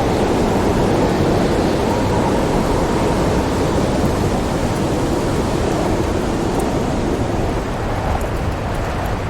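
Storm ambience: a steady, dense rumble of howling wind and rolling thunder, with a few faint fire crackles near the end.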